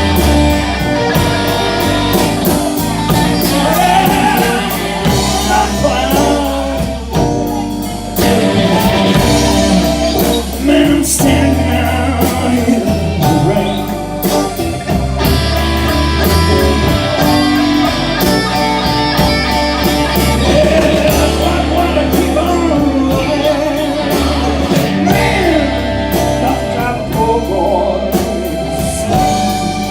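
Live blues band playing a slow electric blues, with electric guitar and a singing voice over the band.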